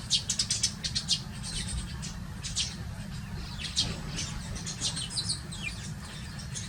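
Eurasian tree sparrows chirping: a quick run of chirps in the first second, then scattered single chirps, over a steady low background rumble.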